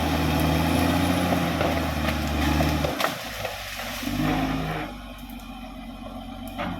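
Caterpillar D6R XL bulldozer's diesel engine working hard, rising sharply at the start, dropping off about three seconds in, and picking up briefly again a little past four seconds.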